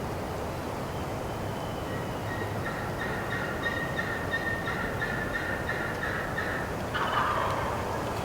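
Wild turkey gobblers gobbling in the distance, rapid rattling gobbles running from about two seconds in until near the end, answering from beyond a thicket.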